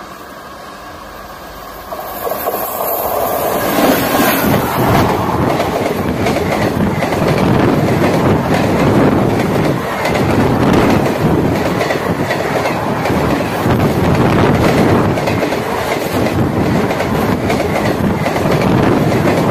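Indian Railways passenger train running past close by. It is fainter for the first two seconds as it leaves the tunnel, then grows suddenly loud as the coaches go by, their wheels clattering rhythmically over the rail joints.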